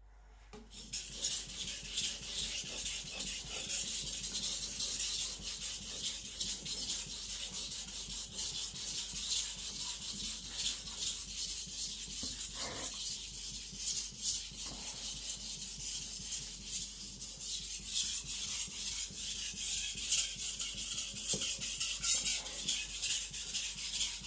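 Carbon-steel (aogami) gyuto blade rubbed rapidly back and forth on a coarse Naniwa Professional 400-grit whetstone, a steady gritty scraping hiss made of quick strokes. The blade is being thinned just above the shinogi line at a low angle.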